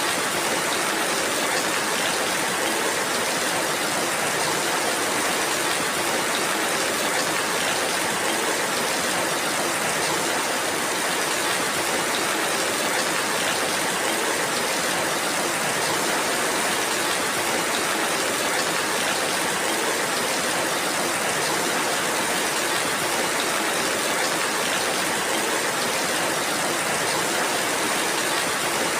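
Steady rain falling, a dense even hiss with no breaks or distinct drops.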